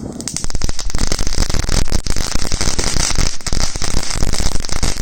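Consumer fireworks crackling: a dense, rapid run of sharp pops that starts abruptly and keeps going without a break.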